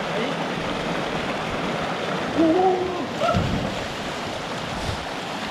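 Steady rush of a creek and waterfall. A short, gliding whoop or call, likely from a person, rises over it about two and a half seconds in.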